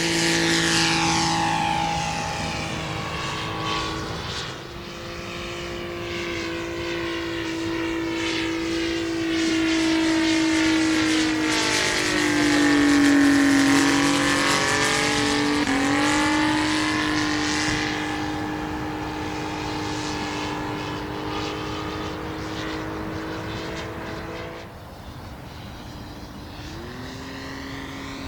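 Saito FG-84 three-cylinder four-stroke radial engine of a radio-controlled Corsair model, running steadily in flight and passing by, loudest about halfway through. Its pitch drops slightly just after the loudest point, and near the end it fades, then rises.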